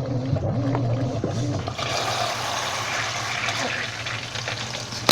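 Washing machine: a low hum whose pitch rises and falls over and over, then a steady rush of water starting about two seconds in, as of the machine filling, with a sharp click at the very end.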